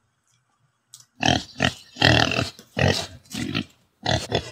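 Close-up eating noises: chewing and smacking of a mouthful of food in a run of loud, short bursts starting about a second in, with a brief pause near the end.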